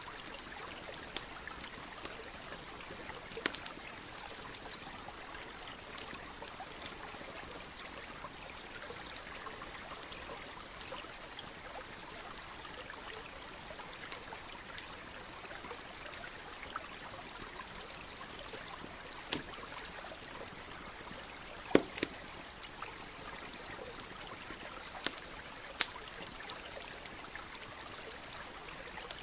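Wood campfire crackling, with scattered sharp pops and snaps, the loudest a few in the last third, over the steady rush of a flowing stream.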